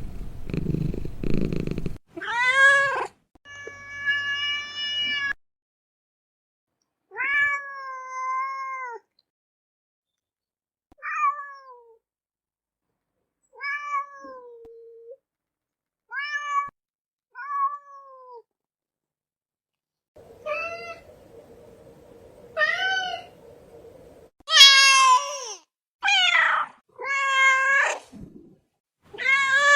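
Domestic cat purring briefly, then a string of separate meows with short silent gaps between them. The last few meows are louder and longer.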